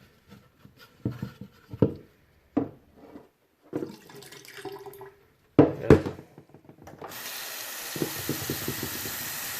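Several short knocks and clunks, then about seven seconds in a tap is turned on and water runs steadily into a sink, for emptying and rinsing out the dirty-water tank of a Hoover Floormate.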